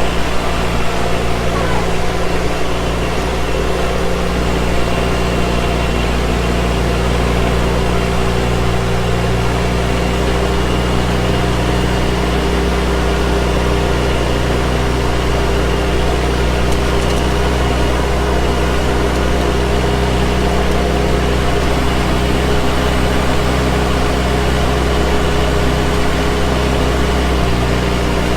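Yanmar VP80DX rice transplanter engine running steadily at an even speed.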